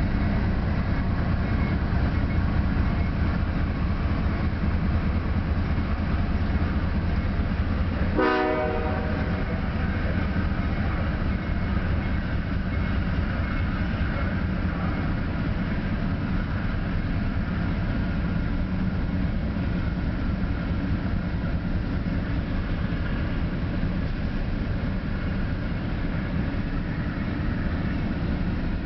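CSX freight train of coal hopper cars rolling slowly past at restricted speed, a steady low rumble of locomotive and cars. A short train-horn blast sounds about eight seconds in.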